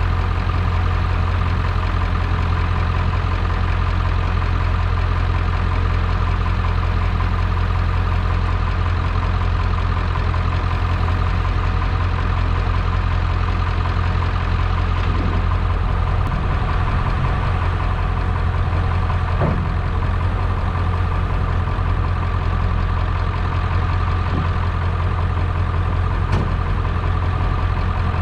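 Pickup truck engine idling steadily while its crane is used, with a few faint clicks and knocks over it.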